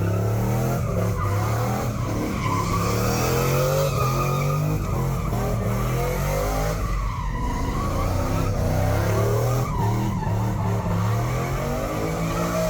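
A vehicle doing a burnout: its engine is revved up and down several times while the spinning rear tyres squeal and hiss against the pavement.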